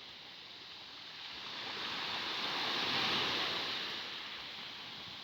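Sea waves washing onto the beach, one wave swelling to a peak about three seconds in and then falling away.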